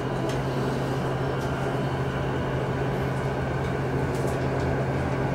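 Inside a JR East E233-2000 series electric commuter train pulling out of an underground station: a steady low hum with running noise.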